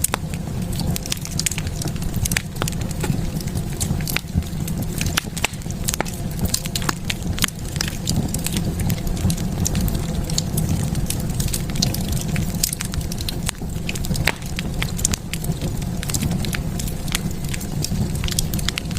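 Wood fire burning in a fireplace, with a steady low rumble of the flames and irregular sharp crackles and pops throughout.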